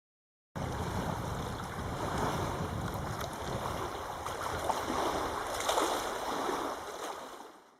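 Wind buffeting the microphone over rushing water. It starts abruptly about half a second in and fades out near the end.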